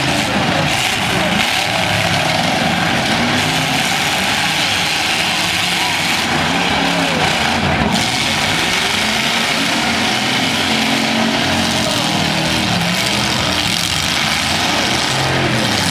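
Several V8 demolition-derby car engines revving hard together, their pitch rising and falling again and again as the throttles open and close.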